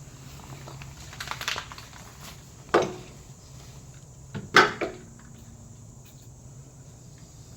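Sharp metallic clanks and clinks of metal parts being handled during muffler work: a quick cluster a little over a second in, a single knock near three seconds, and the loudest few around four and a half seconds.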